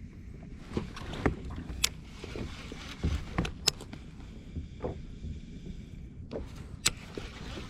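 Water lapping against a fishing kayak's hull, with scattered sharp clicks and knocks from the boat and gear.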